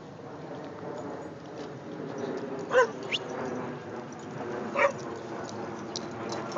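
A dog barking: single sharp barks about two seconds apart, the first about three seconds in, another near five seconds and a third at the very end, with a short high rising note just after the first.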